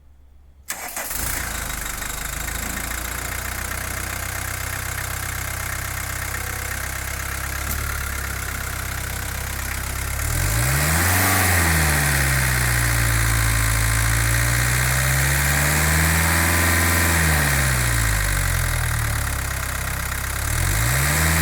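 Volkswagen 1.9 TD AAZ four-cylinder turbodiesel engine starting about a second in and settling to idle. About halfway through it is revved up and held at a raised speed that swells and eases, drops back toward idle, then rises again at the very end.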